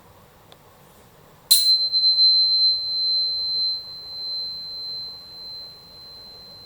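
A tuning fork struck once about a second and a half in: a sharp click, then a single high, pure ringing tone that slowly fades.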